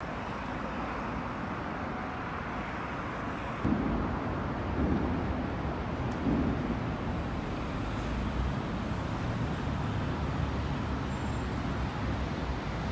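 Steady urban traffic noise, a low rumble of passing vehicles, with three low thumps about four, five and six seconds in.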